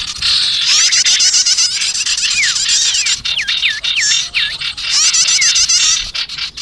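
Bird-trapping lure recording of small songbirds, sirtu and prenjak (prinia) calls mixed together. It is dense, rapid high-pitched chirping throughout, overlaid from about two seconds in by a run of five or so clear whistles that each slide downward.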